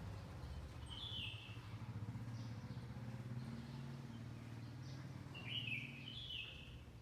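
Small bird chirping: a short call about a second in and a few quick calls near the end, over a steady low background hum.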